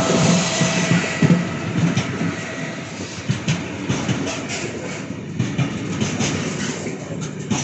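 A train passing on the rails, its wheels clacking sharply and irregularly over the rail joints, the sound slowly fading.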